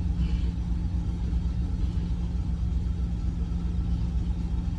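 Steady low rumble of an idling truck engine, with a constant drone and an even throb underneath.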